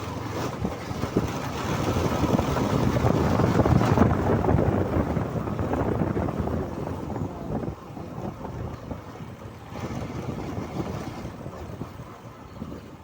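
Wind rushing over the microphone with the noise of a motorcycle ride underneath, loudest about four seconds in and dropping off after about eight seconds.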